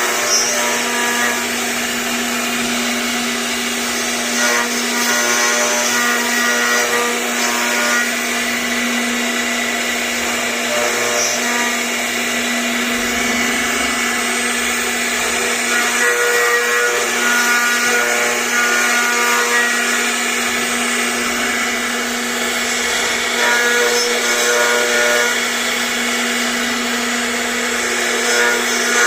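CNC router running steadily as it carves a 3D name. The spindle's constant whine is joined by shorter tones from the axis motors, which change pitch every second or so as the cutting path changes direction.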